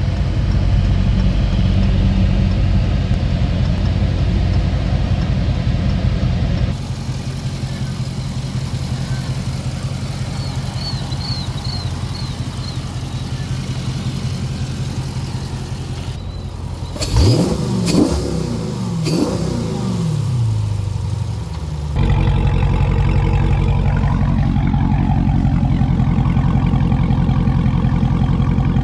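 Dodge 392 (6.4-litre) HEMI V8 idling steadily, with two quick revs a little past the middle that rise and fall in pitch before it settles back to idle.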